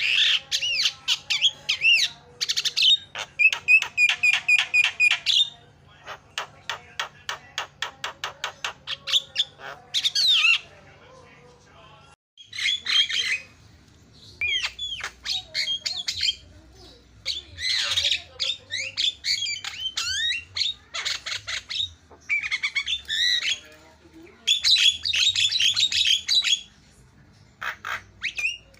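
Javan myna (jalak kebo) singing in loud, varied bursts of whistles, squawks and chatter, including a run of rapid clicking notes about four or five a second, with a short pause about twelve seconds in.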